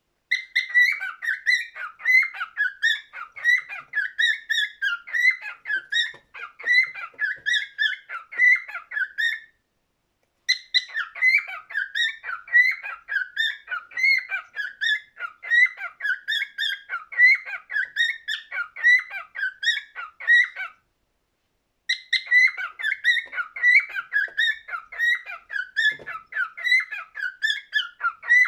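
Cockatiel singing: a fast, warbling whistled song of short rising and falling notes, several a second, in three long runs broken by two brief silences, about a third and two-thirds of the way through.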